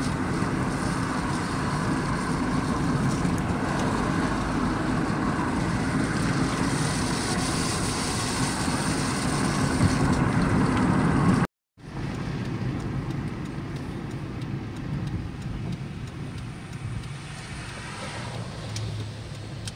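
Steady car road and engine noise from a moving car. It drops out completely for a moment a little past halfway and comes back slightly quieter.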